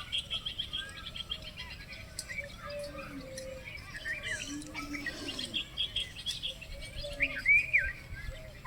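Many birds chirping and calling at once: rapid trills, short rising and falling chirps, and a few louder calls near the end.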